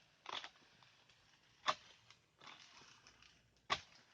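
Oil palm harvesting chisel (dodos) chopping into the palm: two sharp strikes about two seconds apart, with short rustling scrapes between them.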